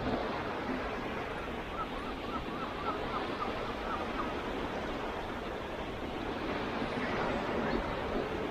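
Steady wash of Baltic Sea surf with some wind. From about two to four seconds in, a bird gives a quick run of short, high calls, about four a second.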